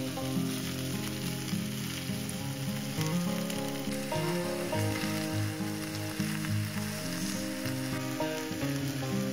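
Chicken legs, broccoli and onion sizzling steadily as they fry in oil in a nonstick frying pan. Soft background music with held, slowly changing notes plays underneath.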